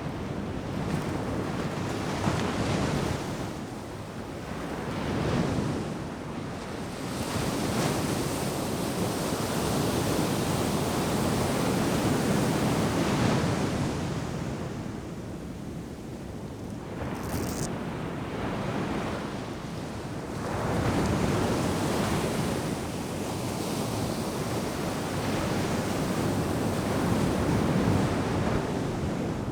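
Ocean surf breaking and washing ashore, the rush of water swelling and fading in waves every few seconds.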